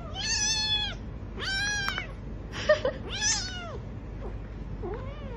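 Kitten meowing repeatedly in high-pitched calls, four clear meows followed by a fainter one near the end.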